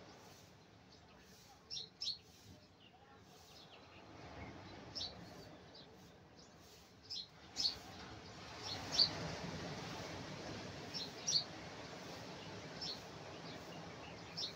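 Short, high bird chirps every second or two over the steady wash of surf breaking on the beach, which swells about eight seconds in as a wave breaks close to shore.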